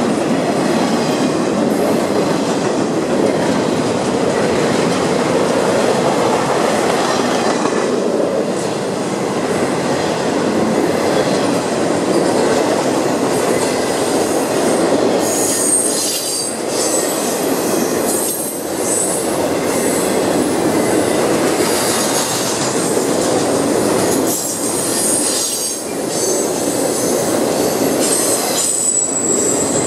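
Freight cars of a CSX intermodal train rolling past: a loud, steady rumble and clatter of steel wheels on rail, with high-pitched wheel squeal coming in about halfway through.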